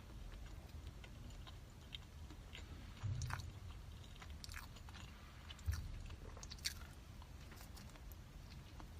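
Close chewing and biting sounds of someone eating a steamed purple sweet potato bun: small wet mouth clicks throughout, with a couple of soft low thumps about three and five and a half seconds in.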